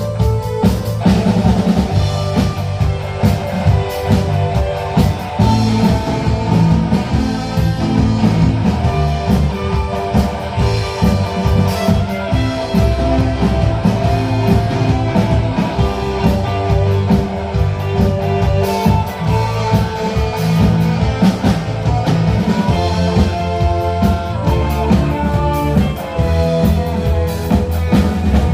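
Live rock band playing an instrumental: a held, sustained melody line over bass and drum kit with a steady beat.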